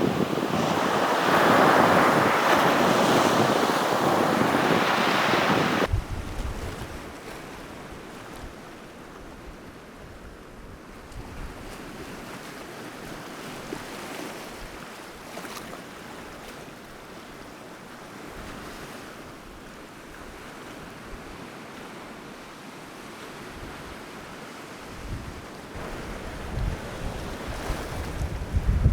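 Sea waves washing on the shore: loud surf for about the first six seconds, then it cuts abruptly to a softer, quieter wash. Near the end, wind buffets the microphone with a rising low rumble.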